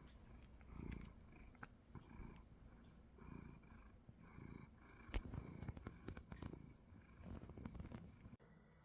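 A cat purring quietly, swelling softly about once a second with each breath in and out; it cuts off shortly before the end.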